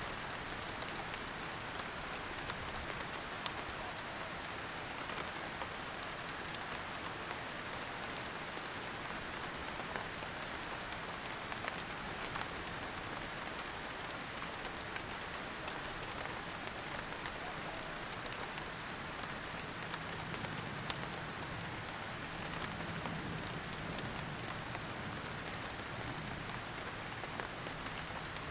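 Steady rain falling and pattering on surfaces, with many small scattered drop ticks.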